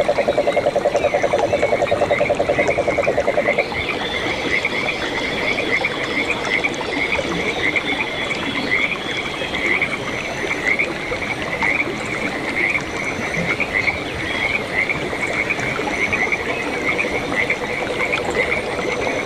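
Frogs calling: a loud, rapid low trill that stops about three and a half seconds in, followed by a steady run of short, higher calls repeating a few times a second. A fainter low trill comes back near the end.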